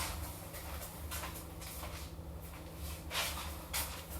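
Food packages and containers being handled and put away: a few short rustles and knocks over a steady low hum.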